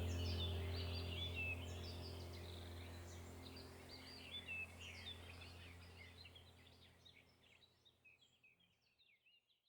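Many small birds chirping busily over a low steady hum, the whole sound fading out gradually to nothing near the end.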